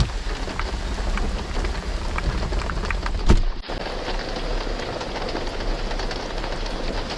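Heavy rain falling steadily, with many separate drops ticking on a surface, and one sharp loud crack a little over three seconds in.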